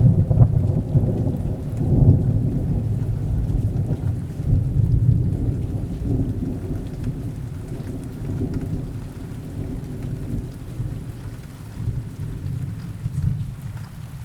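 Rain falling, with a long, deep roll of thunder that is loudest in the first seconds, swells again a few times and slowly fades.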